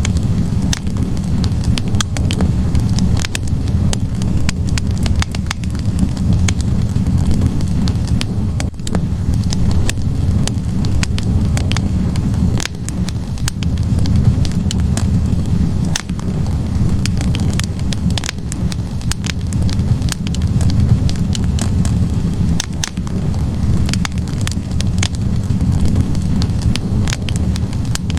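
Wood fire burning in a fireplace: a steady low roar of the flames with frequent sharp crackles and pops from the logs.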